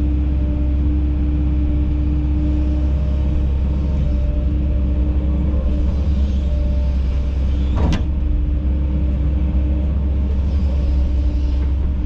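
Kobelco SK210 excavator's diesel engine running steadily under load with a low rumble and a steady hum while digging, with a single sharp knock about eight seconds in.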